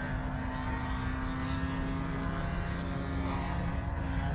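Radio-controlled model airplane's glow-fuel engine running in flight, a steady propeller drone whose pitch shifts a little as it goes.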